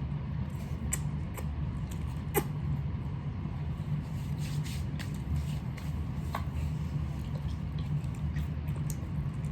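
People eating at a table: scattered small clicks and mouth sounds of noodles being eaten, over a steady low hum.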